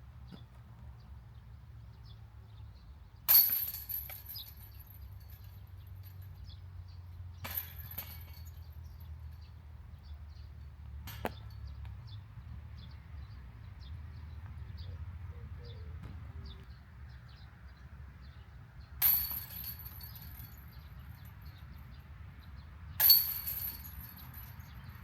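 Disc golf discs striking the chains of a disc golf basket during putting practice, each hit a sudden metallic chain rattle with a brief jingling ring. Three loud hits (about three seconds in and twice near the end), a weaker one about seven seconds in, and a short sharp click about eleven seconds in.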